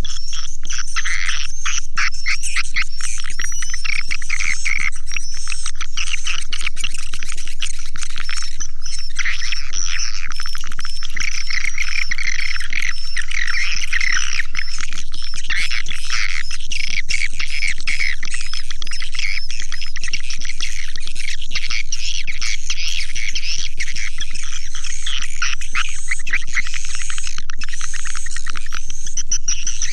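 Swiftlet lure call: a dense, unbroken chorus of quick high chirps and twitters from many swiftlets, played as a recording to call swiftlets in. The level stays steady throughout.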